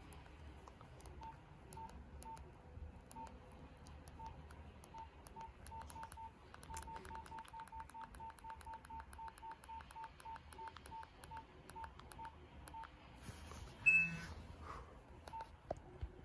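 Nokia 1112 keypad beeping as buttons are pressed: short single-pitch key tones with faint key clicks, spaced out at first, then quicker and regular at about three a second through the middle. A brief, louder, higher tone comes near the end.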